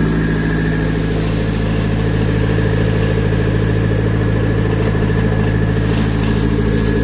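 Nissan SR20DET turbocharged 2.0-litre four-cylinder engine idling steadily on a test stand.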